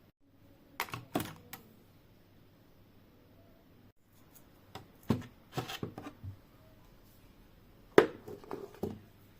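Objects being handled and set down on a hard surface: short clicks, taps and rustles in three clusters, about a second in, around five to six seconds in, and again near the end.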